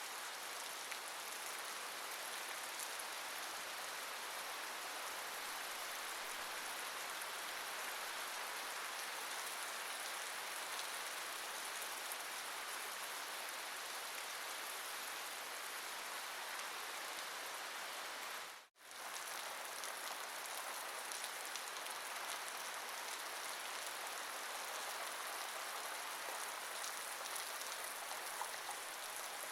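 Steady rain falling, an even hiss with a fine patter of drops. The sound cuts out for a split second about two-thirds of the way through, then resumes unchanged.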